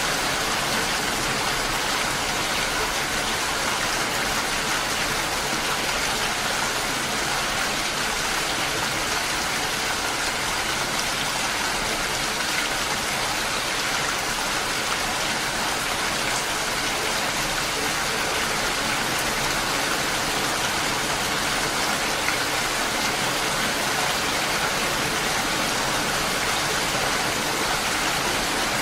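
Steady, even rain falling, with no breaks or distinct drops standing out.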